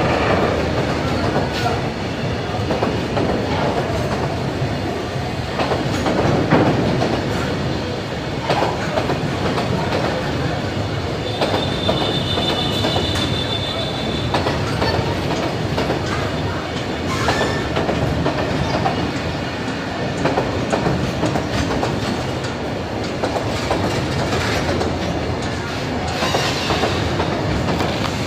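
Freight train of petroleum tank wagons passing close by, with a steady rumble and the clatter of steel wheels over the rail joints. A brief high wheel squeal comes about twelve seconds in.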